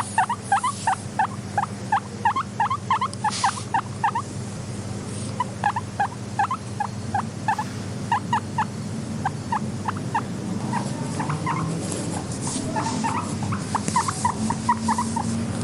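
Guinea pig squeaking in quick runs of short rising squeaks, several a second, with a brief pause about four seconds in. A steady low hum runs underneath.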